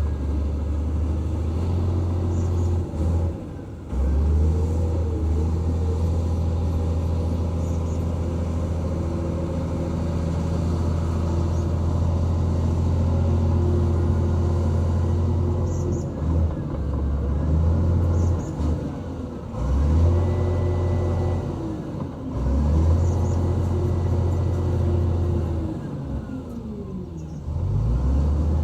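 Diesel engine of heavy earthmoving equipment running under load, its pitch dipping and rising again several times as the revs drop and recover.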